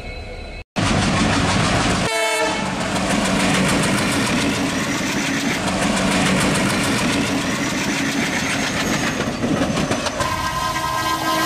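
Train running with a steady rumble and the rhythmic clatter of wheels over rail joints, and a horn sounding near the end that drops in pitch as it passes.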